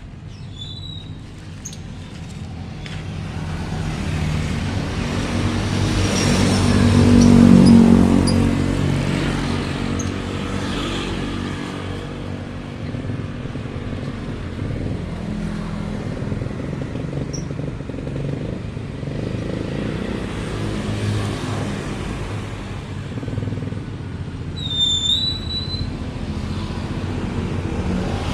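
A motor vehicle's engine passes close by, rising to its loudest about seven or eight seconds in and then fading, with engine noise running on afterwards. A few short high bird chirps come near the start and again near the end.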